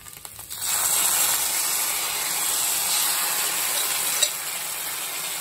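Egg, capsicum and cabbage sizzling in a hot wok. The sizzle comes in suddenly about half a second in and then runs steadily, with one light click a little before the end.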